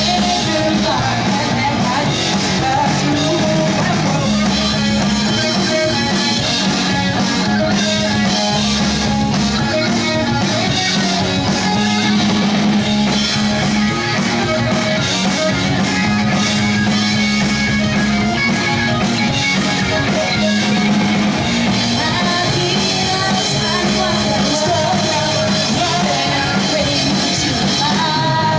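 Pop-punk band playing live: distorted electric guitars, bass and drum kit with sung vocals, loud and continuous.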